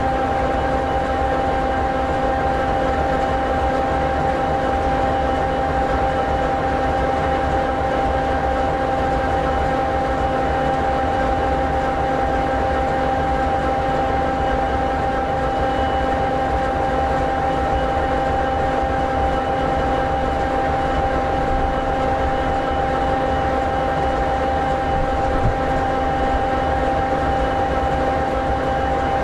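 EMD 16-710G3B sixteen-cylinder two-stroke diesel in an SD60E locomotive, idling steadily: an even low rumble with a constant whine on top.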